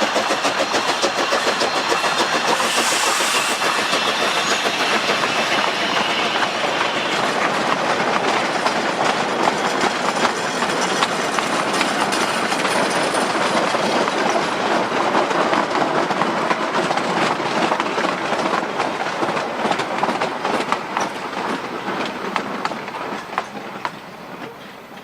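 K-27 Mikado narrow-gauge steam locomotive working a train past, with rapid, even exhaust beats and running noise, and a short hiss about three seconds in. The sound fades over the last few seconds as the train moves away.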